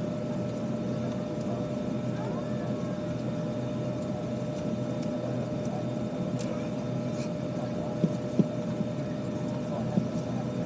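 Steady hum of an Airbus A320 cabin waiting at the gate: air-conditioning airflow with a constant whine running through it. A few light knocks about eight seconds in and again near the end.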